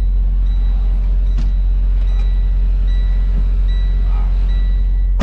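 Steady low rumble of an idling diesel truck engine, with a faint high tone that comes and goes.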